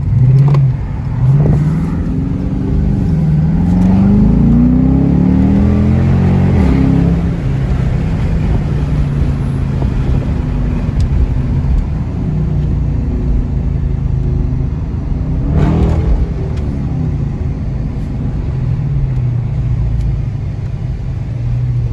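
Dodge Charger with its stock mufflers and resonator, heard from inside the cabin, accelerating hard through the gears. The engine note rises in pitch in a few short pulls and then one longer climb, settles to a steady cruise, and swells briefly once more about sixteen seconds in.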